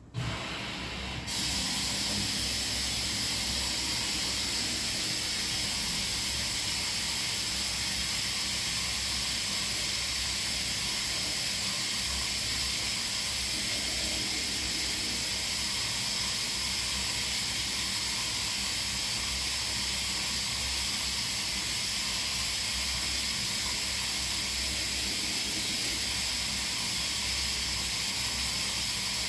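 Washing machine filling with water: a steady hiss of water rushing in, which gets louder about a second in and then holds even.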